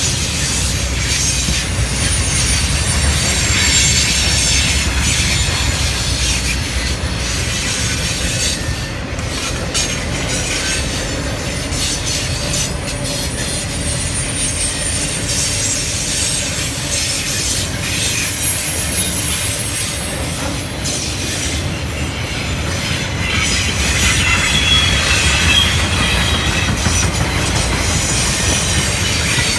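Intermodal freight cars carrying highway trailers and containers rolling steadily past: a continuous rumble of steel wheels on the rails, with high-pitched wheel squeal above it.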